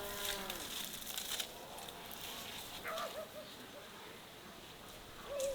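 Farmyard sounds: a cow's long moo trails off in the first half second, followed by a few faint, short wavering calls and light clicks.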